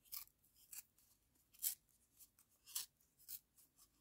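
Faint, brief rustles and scrapes of paper being handled, about five of them, the loudest a little before the middle.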